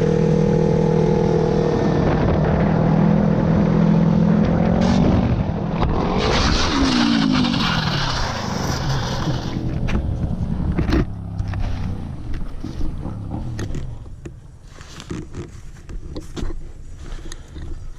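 Motorcycle engine running at steady revs, then its pitch falls and slides up and down as the throttle changes. After that comes a rougher noise with a string of sharp knocks, quieter near the end.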